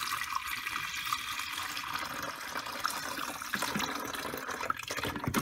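Water pouring steadily into a container, filling it with plain water for a coffee maker's first cleaning brew.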